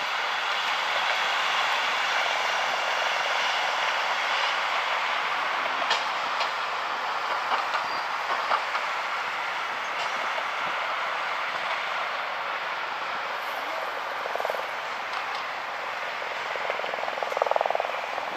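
A train running on the rails: a steady rolling rush with a few sharp clicks, easing off slightly over the second half.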